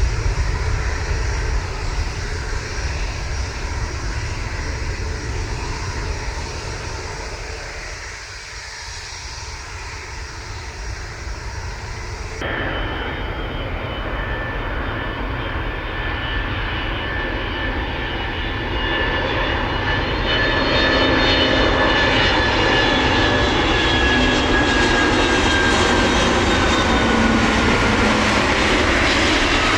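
Jet airliner engines. A plane's roar fades and dips, then after an abrupt cut about twelve seconds in, another jet airliner grows louder, its high engine whine slowly falling in pitch as it passes.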